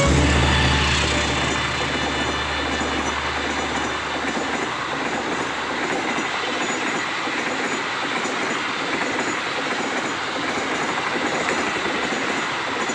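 Fast train passing at speed: a steady loud rush with wheels clattering over the rails. A deep rumble fades over the first few seconds.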